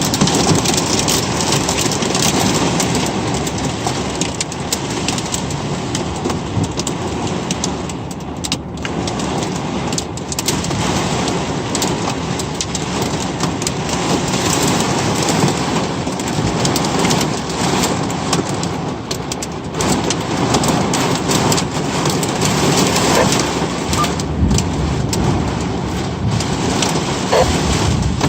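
Heavy thunderstorm rain falling steadily, with a dense run of small drop impacts on surfaces.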